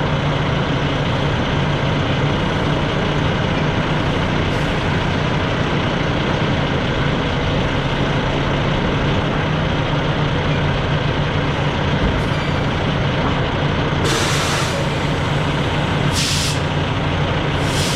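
Semi truck's diesel engine running steadily, with two short hisses of air from the air brakes near the end.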